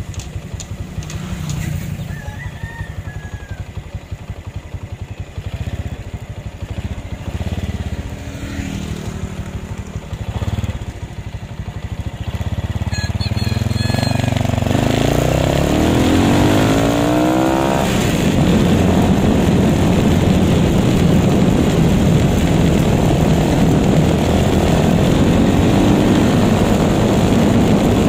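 Honda XRM125 single-cylinder four-stroke engine with a 57 mm big-bore kit, stage 2 cams and a Raider 150 exhaust pipe, blipping at low revs at first. About twelve seconds in it revs up as the bike pulls away, its pitch climbing until about eighteen seconds in, then it holds steady at high revs.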